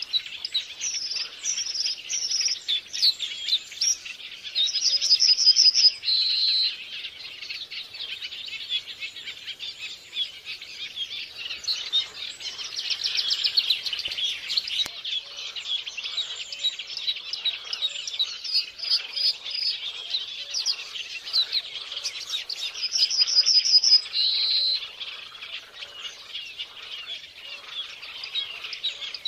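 Violet-backed starling song: a dense, continuous run of high chattering and warbled notes. A louder rapid trill ending in a short whistle stands out twice, about five seconds in and again some eighteen seconds later.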